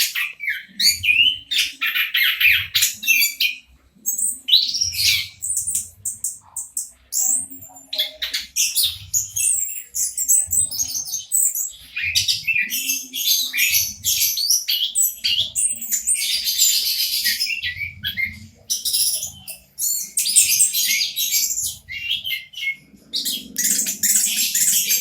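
Orange-headed thrush singing a fast, varied song of chirps, trills and rattling notes that run on almost without a break, with brief pauses about four seconds in and again near twenty seconds.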